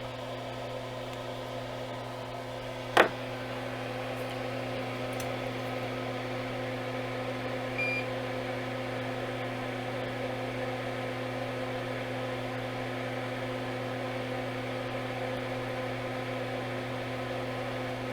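Steady electrical hum from bench electronics-repair equipment. A sharp click comes about three seconds in, after which the hum grows slightly louder, and a short high beep sounds about eight seconds in.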